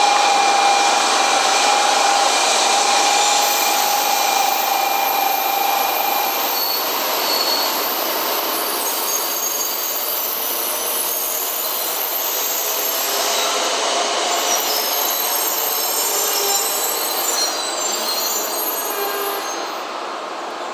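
N700 series Shinkansen train running into the platform and slowing to a stop: a steady rush of wheels on rail with thin high-pitched squealing, slowly growing quieter.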